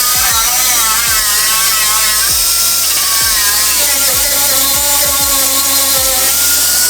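High-speed power tool running with a steady whine that wavers up and down in pitch as it is loaded.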